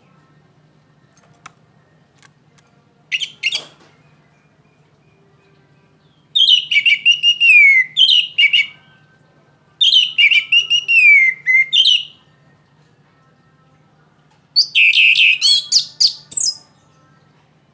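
Orange-headed thrush singing in the rapid chattering 'trotol' style: a short call, then three loud phrases of about two seconds each, made of fast high notes. A faint steady low hum runs beneath.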